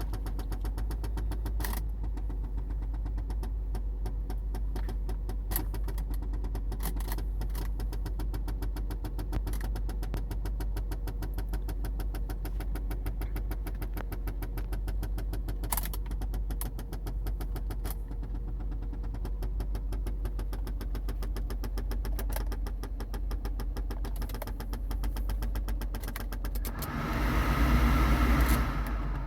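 1986 Porsche 928S V8 running steadily at cold idle, with a brief louder surge near the end.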